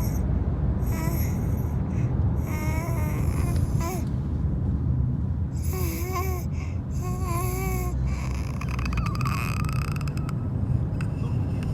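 A four-month-old baby cooing: several drawn-out vocal sounds with wavering, sliding pitch, separated by short pauses. A steady low rumble runs underneath.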